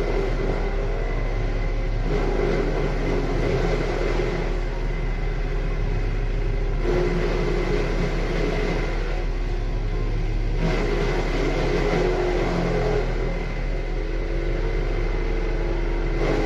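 Crawler-mounted hydraulic wood chipper running, its engine droning steadily under a loud mechanical clatter, the sound shifting abruptly a few times.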